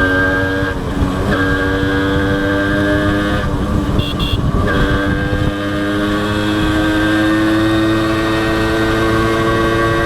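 Honda H100S motorcycle's single-cylinder four-stroke engine running on the move. Its note dips briefly about a second in and again around four seconds in, then climbs slowly through the rest. Two short high beeps come about four seconds in.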